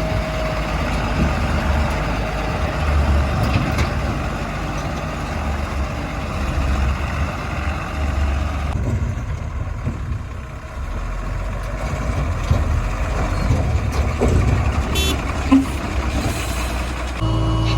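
Heavy diesel engine of a JCB 3DX backhoe loader running and working under varying load. About halfway through the sound changes abruptly and becomes duller.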